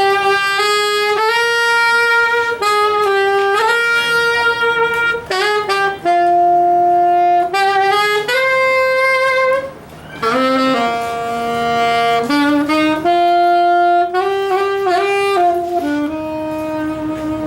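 A solo wind instrument plays a melody of held notes with no accompaniment, pausing briefly about ten seconds in before going on.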